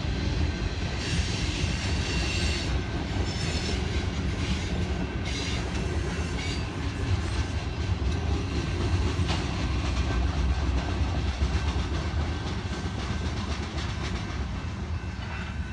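Freight train rolling past: a steady rumble of cars on the rails with wheel clatter, and a few brief higher rasping noises in the first few seconds.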